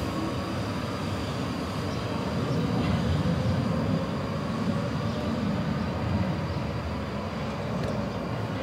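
South Western Railway electric multiple-unit train running on the line, a steady low rumble that swells slightly about three seconds in.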